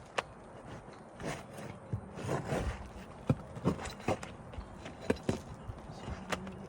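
Hand work on an asphalt shingle roof as a 3-tab shingle is worked loose and pulled out: about eight sharp, irregular knocks and clicks over scraping and rubbing.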